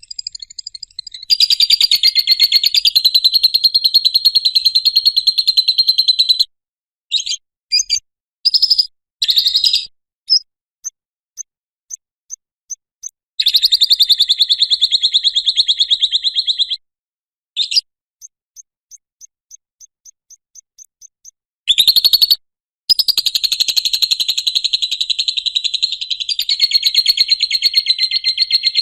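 Lovebird singing its 'ngekek': long runs of fast, rattling chatter lasting several seconds each. Between the runs come a few short chirps and strings of faint, quick ticks. The runs stop and start abruptly.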